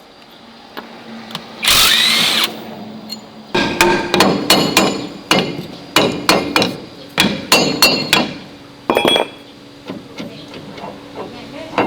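A short power-tool burst, then a run of about fifteen irregular hammer blows on metal, each ringing briefly.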